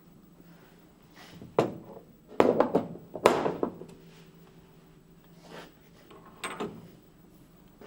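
Metal parts of an Atlas Copco COP 1838 rock drill gearbox knocking and clanking as they are handled. A cluster of quick knocks comes two to four seconds in, one leaving a short metallic ring, and a couple more knocks come near the end.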